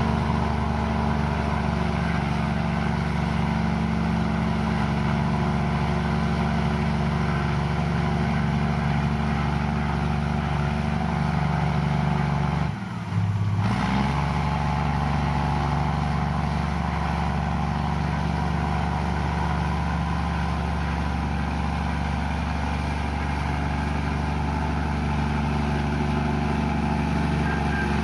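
Komatsu bulldozer's diesel engine running steadily under load as it pushes mud. About halfway through, its note dips briefly and then picks up again.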